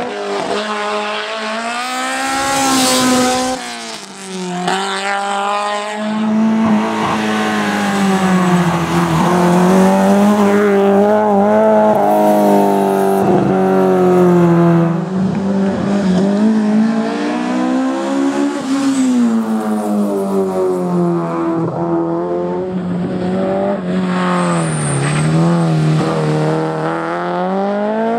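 BMW M3 E30 race car engine revving hard, its note climbing and dropping over and over as the car accelerates, shifts and slows for corners. A brief tyre squeal comes about three seconds in.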